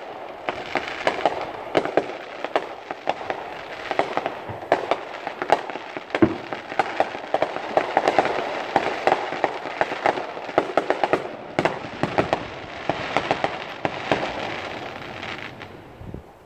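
Fireworks going off: a dense, fast run of pops and crackles over a rumbling haze, dying away shortly before the end.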